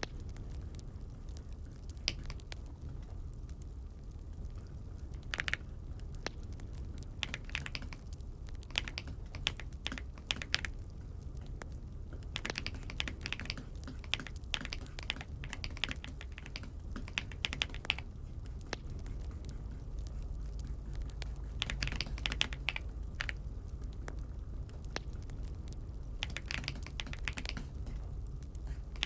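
Typing on an Aula F75 mechanical keyboard: irregular runs of key clicks broken by short pauses, over a steady low hum.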